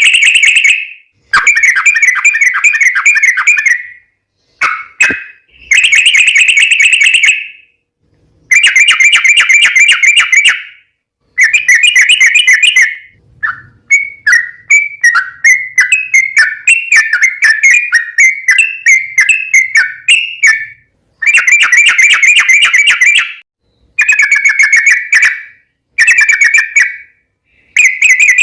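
Yellow-vented bulbul (trucuk) song: repeated bubbly, warbling chatter phrases of one to two seconds with short gaps between them. About halfway through comes a longer run of quick rising notes, the long rolling 'ropel' song used to draw other trucuk into answering.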